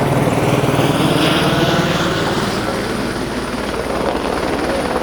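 Helicopter flying overhead: a steady, even beat of rotor blades that swells a little about a second in.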